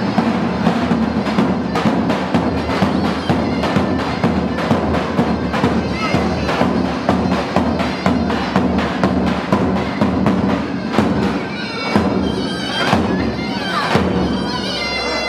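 Turkish folk dance music on davul and zurna: the bass drum beats in a quick, steady rhythm under the shrill reed pipe, whose held note stands out near the end.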